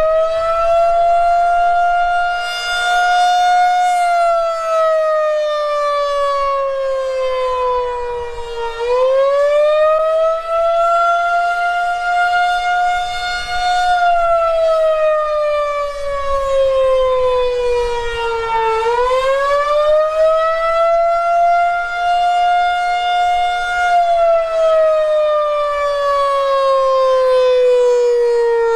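Federal Signal 2001-130 rotating outdoor warning siren sounding its attack signal: a tone that rises quickly, holds for a few seconds and slides slowly back down, about every ten seconds. Its pitch wavers through the test.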